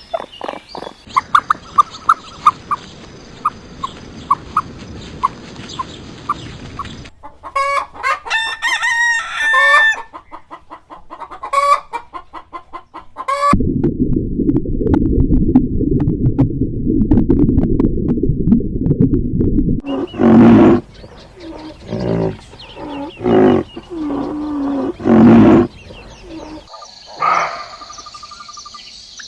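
Chickens clucking in quick short calls and a rooster crowing, in a run of separate clips. In the middle there is a stretch of low, muffled noise of about six seconds.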